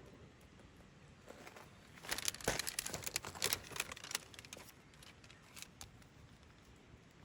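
A burst of crinkling, rustling handling noise with quick clicks, lasting about two seconds and starting about two seconds in, with one duller knock among it.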